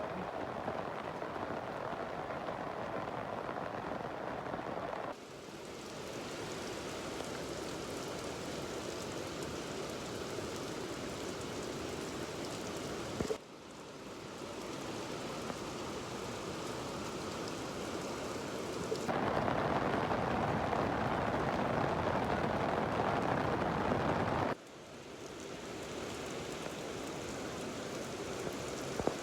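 Steady rain falling, a dense even hiss. Its sound changes abruptly four times, every five to eight seconds, as it switches from one recording of the rain to another.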